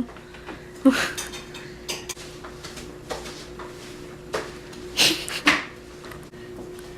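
Scattered knocks and clinks of kitchenware being handled, the loudest about a second in and around five seconds in, over a faint steady hum.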